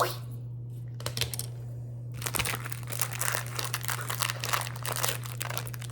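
Knife cutting open the packaging of a box of microwave popcorn: a few clicks, then from about two seconds in a dense crinkling and tearing of the wrapping, over a steady low hum.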